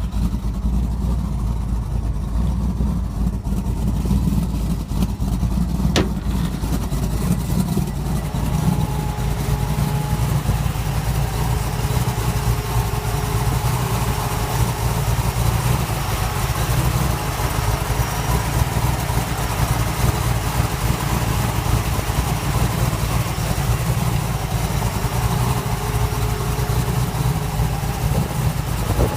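1946 Ford truck engine running steadily, with a single sharp click about six seconds in.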